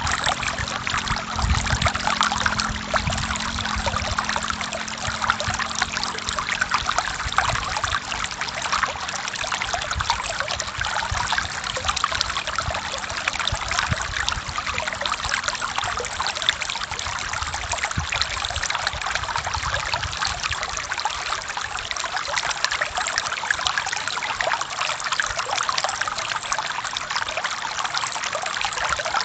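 Forest stream flowing: a steady trickling, splashing rush of water over rocks.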